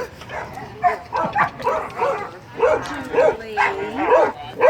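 Several dogs barking, yipping and whining at once in short overlapping calls, with one drawn-out falling whine about three and a half seconds in.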